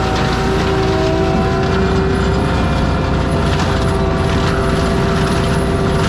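Compact track loader with a forestry mulcher head running steadily under load, the diesel engine's rumble under a steady multi-tone whine from the mulcher drive.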